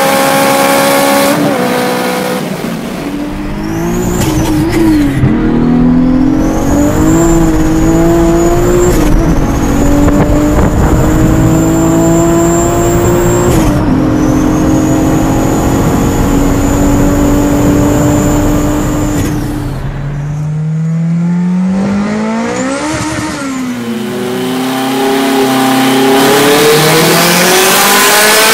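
Turbocharged car accelerating hard through several gears: the engine pitch climbs in each gear and drops at each shift, with a thin high turbo whistle rising alongside. Later a car speeds past, its pitch rising then falling, and another acceleration starts near the end.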